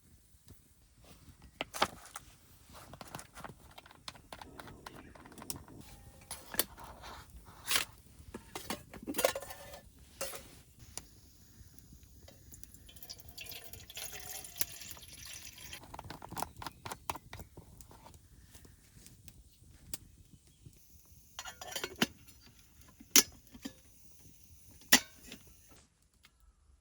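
Metal camp cookware clinking and knocking as it is handled, with water poured or sloshing partway through.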